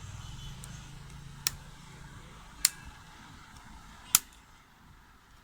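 Three sharp, short clicks about a second apart, over a low hum that fades away in the first couple of seconds.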